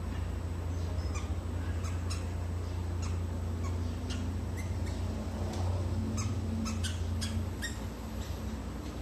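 Birds feeding on bananas giving many quick, sharp chips in irregular runs. A steady low hum lies underneath and drops away near the end.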